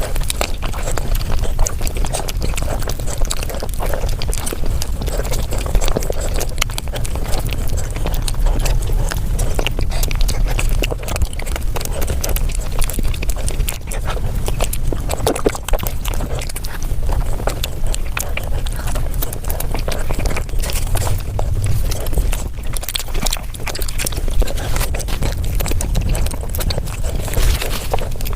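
Close-miked chewing and lip-smacking of someone eating cake, sped up five times, so the mouth sounds run together into a rapid, dense patter of clicks.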